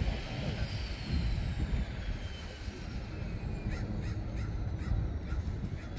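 Bird calls: a quick run of about six short calls in the second half, over a steady low rumble, with a faint falling whine in the first half.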